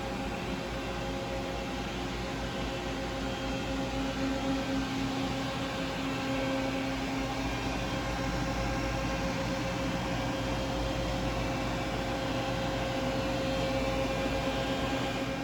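Nakamura-Tome TMC-400 CNC turning center running under power: a steady mechanical hum with a few constant tones over a low rumble.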